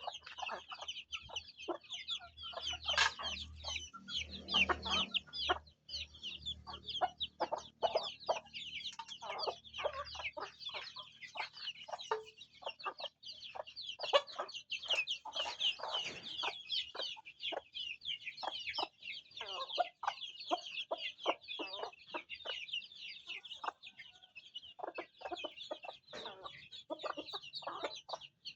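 Chickens in a flock: many chicks peeping continuously in a dense high chatter, with lower clucks from the hens scattered through it.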